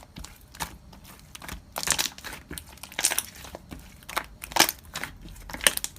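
Slime being pressed and squished by hand, giving irregular crackling, crinkling pops.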